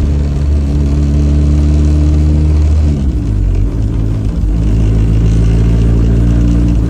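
Honda K-series four-cylinder engine in a Toyota MR2 running steadily under way. About three seconds in its note drops and then holds at lower revs.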